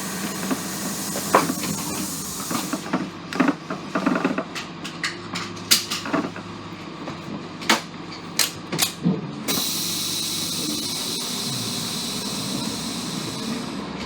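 A run of sharp knocks and clicks over a low steady hum, then a steady hiss that starts suddenly about two-thirds of the way in and keeps on.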